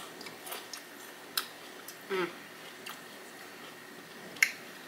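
Close-miked chewing of crunchy Flamin' Hot Cheeto-coated fried pickles, with scattered small crunches and mouth clicks. There is a brief vocal sound about two seconds in and a sharp click near the end.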